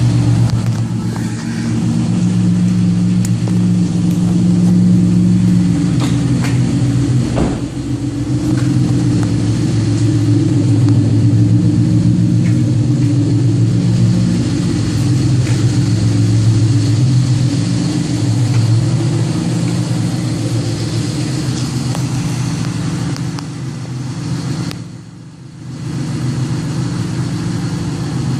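2005 Pontiac Aztek's 3.4-litre V6 running through a custom dual exhaust: a low, steady drone whose pitch and loudness shift up and down, dipping briefly near the end.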